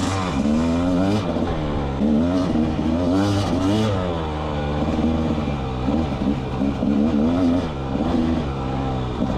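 The 300cc two-stroke single of a Rieju MR300 Pro enduro bike, revving up and down again and again as the throttle is worked on a trail. There are a few short bursts of hiss near the start and about three to four seconds in.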